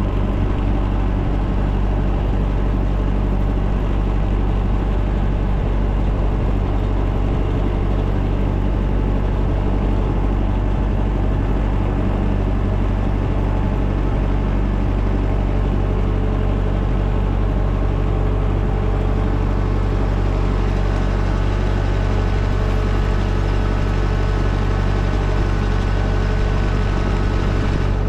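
An engine running steadily, a constant low hum with no change in pitch or level.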